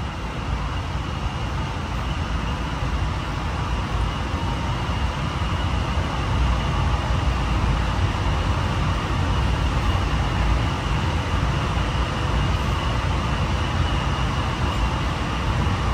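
Interior running noise of a Honolulu Skyline electric metro train in motion: a steady low rumble with a faint steady high tone above it, growing slightly louder.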